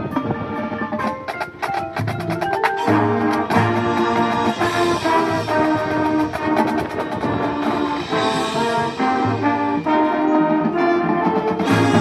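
High school marching band playing: quick mallet-percussion notes for the first couple of seconds, then full brass chords with low brass entering underneath, over percussion.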